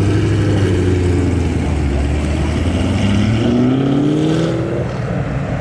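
Chevrolet Camaro Z28's V8 engine running as the car pulls away. It revs up with a rising pitch about three seconds in, then eases off near the end.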